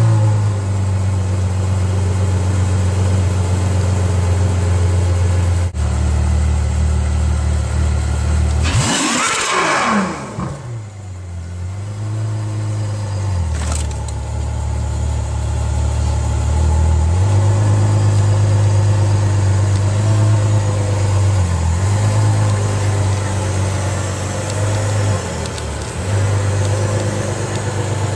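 Car engine running hard, its pitch holding steady and then stepping up and down several times as the revs change. Around nine seconds in there is a short rising and falling sweep, like a vehicle passing close by.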